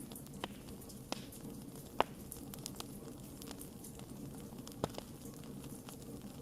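Wood campfire burning, a steady low rush of flame with scattered sharp pops and crackles, the loudest snap about two seconds in.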